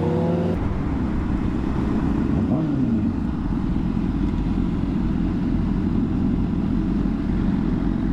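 Honda CBR600RR inline-four engine with its revs rising in the first half second, then running steadily while riding, under road and wind noise.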